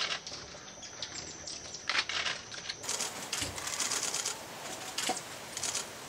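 Short, dry ticking chip calls from birds, coming singly and in quick clusters throughout, with a change in the recording's background about a third of the way through.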